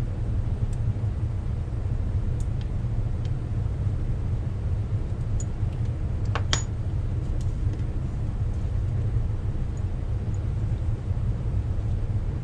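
Steady low rumble of workshop background with a few light clicks and one sharper metallic clink, about six and a half seconds in, that rings briefly: small metal brake parts or tools being handled.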